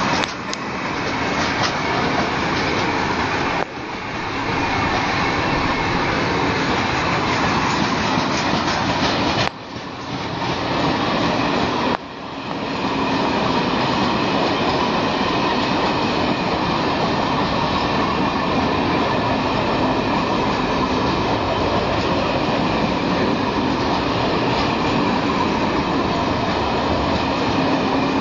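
Works train running past close by, its wheels clattering over the rail joints in a loud, steady rumble. The noise drops sharply a few times and swells back.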